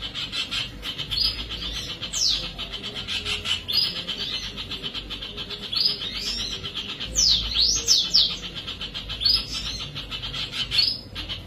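Birds chirping: steady rapid twittering, with several quick downward-sliding whistled notes, a cluster of them near the middle.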